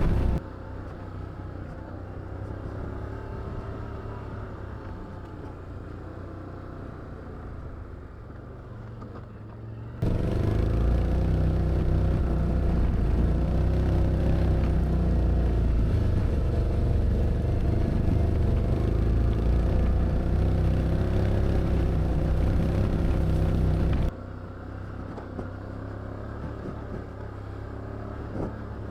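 Can-Am ATV engines running on a trail, the pitch rising and falling with the throttle. The sound becomes abruptly louder and deeper about 10 s in and drops back just as suddenly about 24 s in.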